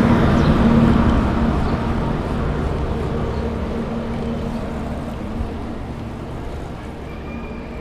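A motor engine humming steadily close by, then fading gradually over several seconds as it moves away.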